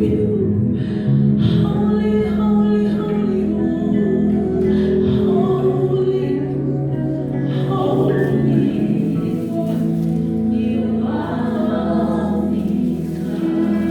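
Gospel worship music: a group of voices singing over sustained keyboard or pad chords.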